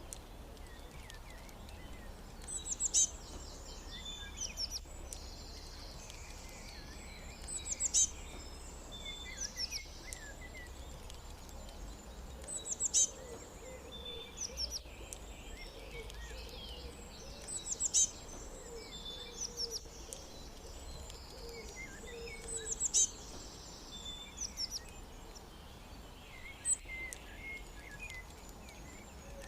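Several small birds chirping and calling high-pitched, with a louder sharp call coming back about every five seconds, over a steady low background rumble.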